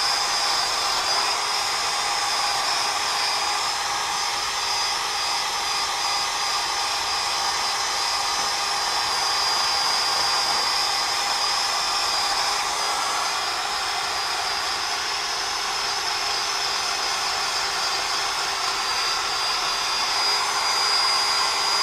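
Wire wheel spun by a power tool, running steadily with a constant whine as it scrubs rust off the steel hub mounting surface.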